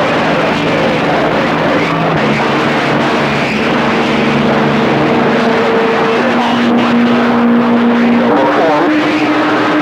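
CB radio receiver static: a loud, steady hiss from the open band, with several steady whining carrier tones from other stations' transmissions that change pitch about two seconds in and again near the end.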